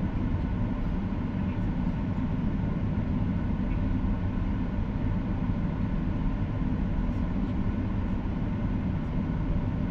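Steady cabin noise inside a Boeing 737-800: an even roar from the engines and the air rushing past, with no change in level.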